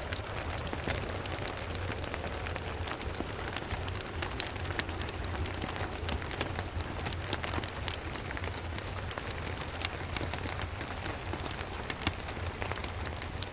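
Steady rain, with many small sharp crackles and ticks scattered through it and a constant low rumble underneath, in an even, unchanging ambience mix.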